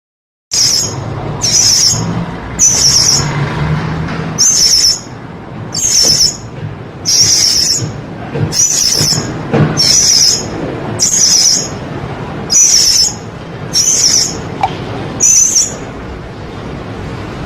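Blue-crowned hanging parrot (serindit) calling: a series of about a dozen short, shrill, high-pitched notes, roughly one a second, over a steady low background noise.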